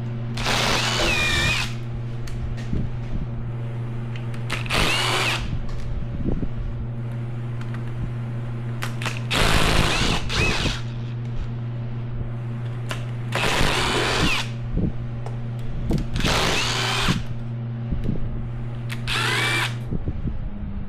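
Cordless power drill-driver spinning bolts out during an engine teardown, in six bursts of about a second each, a few seconds apart, with a whining motor pitch. A steady low hum runs underneath and stops near the end.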